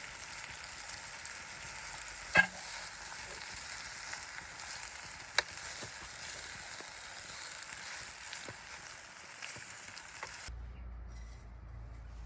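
Food sizzling and frying in a pan over a campfire, with a few sharp clinks of a utensil stirring against the pan, the loudest about two and a half seconds in. The sizzle cuts off abruptly near the end.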